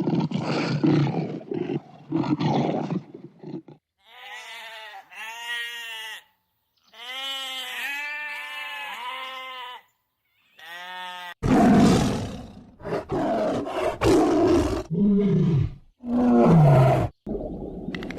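A sequence of different animal calls. A big cat roars for the first few seconds. Then come three groups of short pitched calls repeated in quick succession, each call rising and falling, and from about halfway on a run of loud, harsh calls with short breaks between them.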